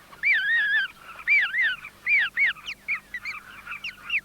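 Birds calling: loud arched chirping notes, at first in pairs, then shorter, faster and overlapping from about the middle on.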